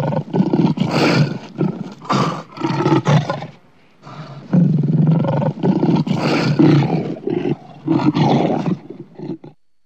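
Lion roaring in two bouts of deep, pulsing calls, with a short pause about four seconds in; it stops just before the end.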